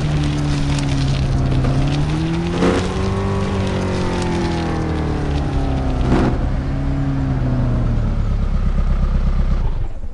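Truck engine running with its pitch dipping, rising a little about three seconds in, then easing lower. Two short sharp cracks come about two and a half and six seconds in, and the sound cuts off suddenly near the end.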